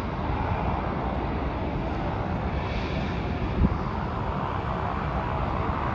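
Steady rumble of jet airliner engines across the airfield, with a single sharp knock about three and a half seconds in.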